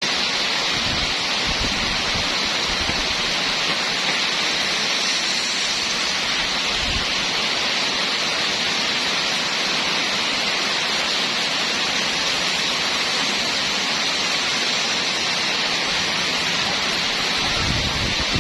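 Steady rainfall, a constant even hiss of falling rain with no pauses. A deeper rumble comes in near the end.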